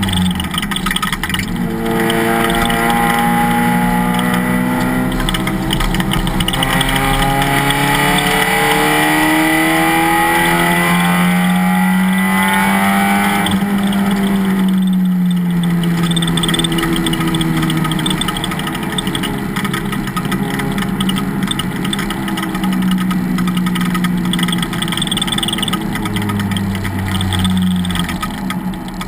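Race car engine pulling hard, its pitch climbing steadily for about ten seconds, then falling away over a few seconds as it slows, and running on at lower revs.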